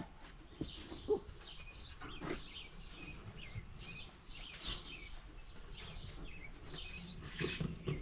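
Small birds chirping on and off, short high chirps every second or two, with a couple of faint knocks in the first second or so.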